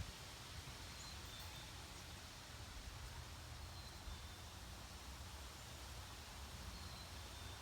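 Faint steady background noise with a low rumble, and a few faint, short high chirps spread through it.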